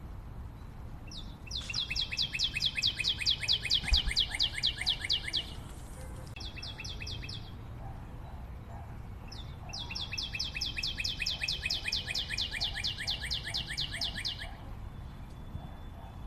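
A bird singing: three runs of fast, evenly repeated high notes, about seven a second. The first and last runs each last about four seconds, with a short run of about a second between them.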